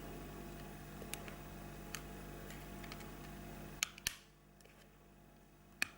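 Light plastic clicks of a small electrical plug being handled and pushed into a lighting hub socket, with a sharp double click about four seconds in. A steady low hum stops at that same moment.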